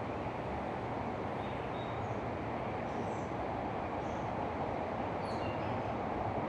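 Steady rushing outdoor noise, with a few faint, short bird chirps above it.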